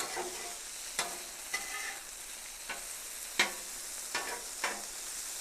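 Cornstarch-coated chicken pieces shallow-frying in oil on a griddle: a steady sizzle with a few sharp pops scattered through, the loudest about three and a half seconds in.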